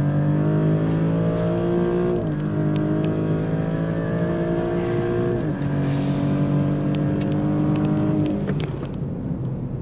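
2023 Maserati GranTurismo's twin-turbo V6 accelerating at full throttle, its note climbing through each gear with quick upshifts about two and five and a half seconds in. Near the end the revs fall away as the throttle is lifted.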